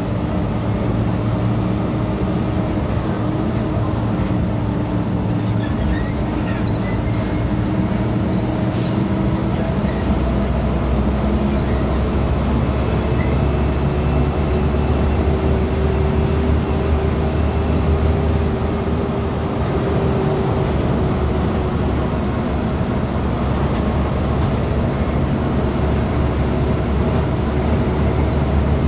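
Diesel engine of a VW 17.230 OD Euro V bus running steadily. About ten seconds in, its deep note grows stronger and its pitch rises slightly.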